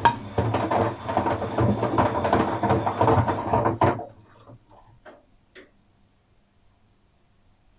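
Atlant 50U101 washing machine on an express wash, its drum turning a load of paint rollers and brushes with a dense clattering, sloshing rattle. The drum stops about four seconds in, a few soft clicks follow, then the machine pauses, as it does between turns of a wash cycle.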